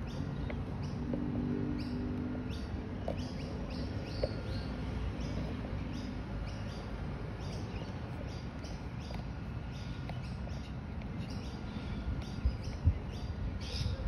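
Small birds chirping in short, repeated high calls over a steady low outdoor rumble, with a low hum for the first few seconds.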